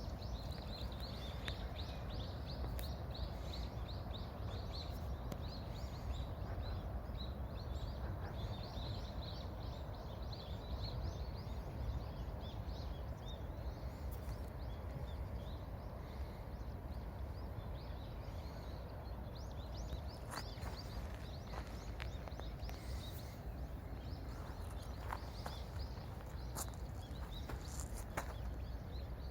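Outdoor riverside ambience: a steady low rushing noise, runs of rapid high chirping, and a few sharp pops or crackles in the second half.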